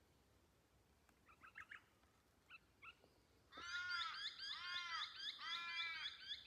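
Birds calling: a few faint, short chirps, then about three and a half seconds in a loud run of quick, repeated arching calls that keeps going.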